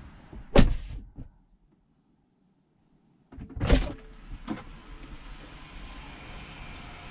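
A Tesla car door shutting with a solid thud about half a second in. After a gap, a second door thud comes in the middle, followed by a lighter knock.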